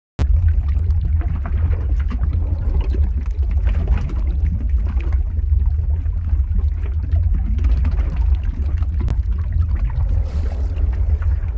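Lava flow ambience sound effect: a deep, steady rumble with scattered crackles and pops over it, cutting in abruptly after a brief silent gap at the very start.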